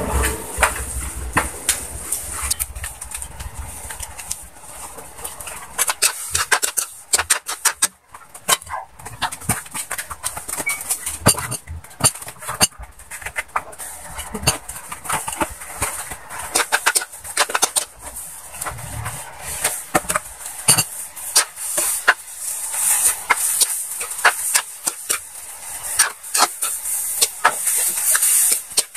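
Chopped banana pulp (banana stem heart) sizzling in oil in an aluminium wok over a wood fire: a steady high hiss with many irregular crackles and pops.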